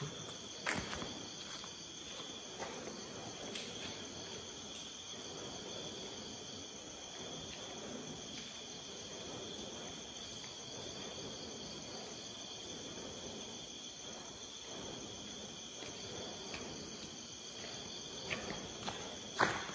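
A steady chorus of crickets and other night insects, with high ringing tones over an even background hiss. There is a faint knock about a second in and a few more near the end.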